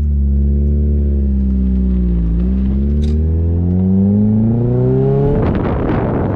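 Mazda MX-5 Miata four-cylinder engine running through an ISR cat-delete stainless exhaust while driving. The note dips, then climbs steadily as the car accelerates, and turns rough and noisy about five seconds in.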